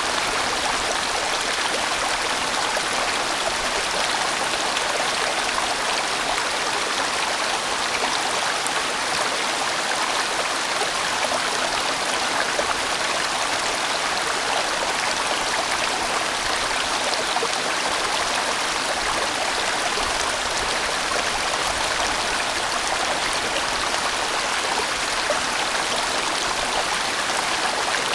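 A large mountain stream rushing steadily over rocks, an even, unbroken sound of flowing water.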